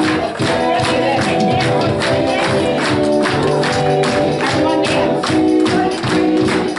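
Live congregational worship music: voices singing held notes over a band, with percussion keeping a steady beat.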